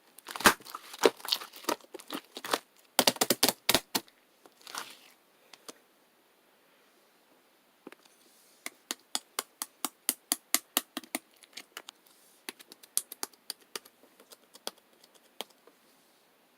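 Blue and grey slime being squished and pressed by hand, giving sharp clicking pops of trapped air. A dense burst of crackling clicks comes first, then a short pause, then a steady run of clicks about three a second.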